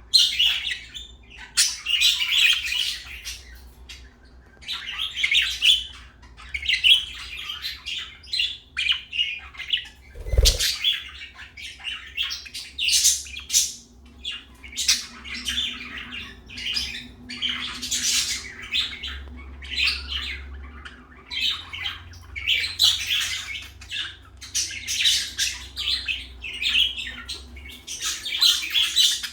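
Budgerigars chirping and chattering continuously in quick, irregular bursts, with a single short thump about ten seconds in.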